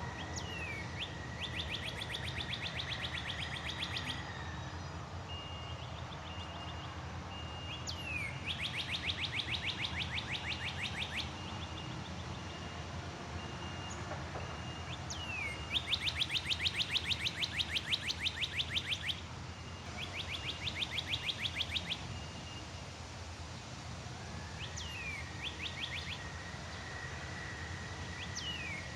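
A bird singing a repeated phrase: a quick down-slurred note, then a fast, even trill of rapid notes lasting two to three seconds. The phrase comes four or five times, several seconds apart, over a steady low background rumble.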